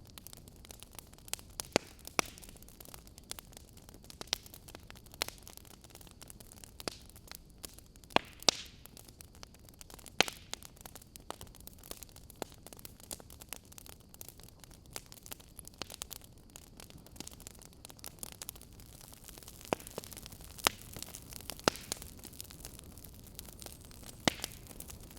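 Fire crackling: irregular sharp pops and snaps, a few of them much louder, over a steady soft hiss.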